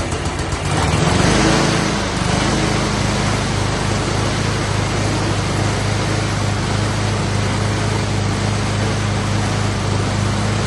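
Troy-Bilt Bronco riding lawn mower engine running; it speeds up about a second in, then holds a steady hum.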